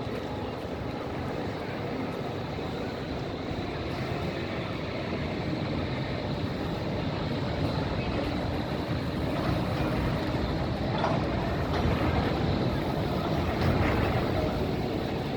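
City street traffic noise, with a vehicle approaching and growing louder toward the end.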